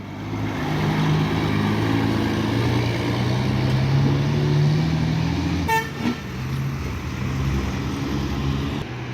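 Loaded heavy truck's diesel engine running loud as it passes, its note shifting up and down, with one short horn toot a little past halfway.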